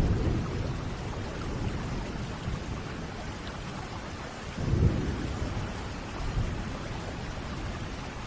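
Steady rain with rolling thunder: a low rumble at the start, a louder one about five seconds in, and a smaller one shortly after.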